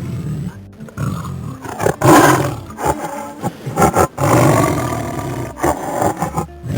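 Tiger roaring, several loud rough roars in a row, the strongest about two seconds in and a long one near the middle to the end.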